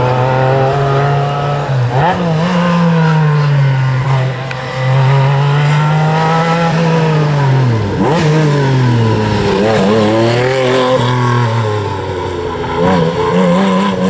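Rally car engine under hard driving, its note climbing and dropping again and again through gear changes and lifts off the throttle, with a deep fall in pitch about eight seconds in before it picks up again.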